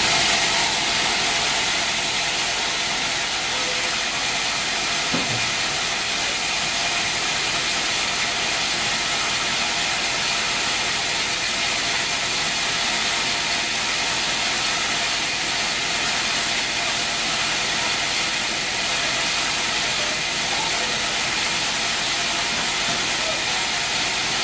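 Sawmill machinery running with a steady hiss, and a faint knock about five seconds in.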